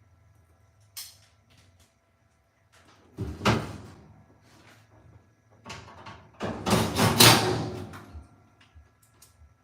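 Handling knocks and rattling, like a door or panel being moved. There is a sharp click about a second in, a short clatter a few seconds later, and a longer, louder clatter past the middle.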